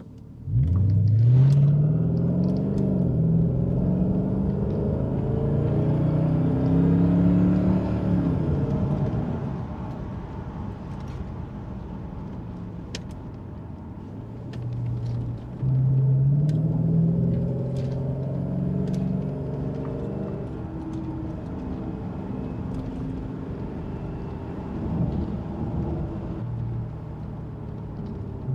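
Jaguar XK8's V8 on an aftermarket Adamesh exhaust. It accelerates about half a second in, its note rising in pitch and then holding, and eases off. It picks up again around the middle and cruises.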